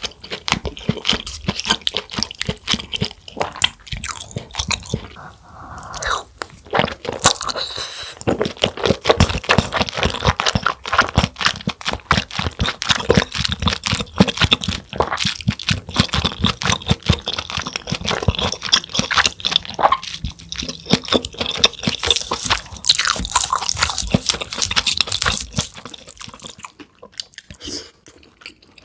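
Close-miked chewing and crunching of cheesy food: a dense run of rapid bites, smacks and mouth clicks that thins out and grows quieter over the last few seconds.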